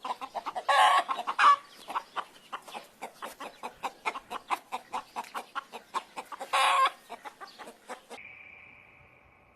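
Chickens clucking in a fast run of short calls, about four or five a second, with two louder squawks, one about a second in and one near the end. The clucking cuts off abruptly shortly before the end.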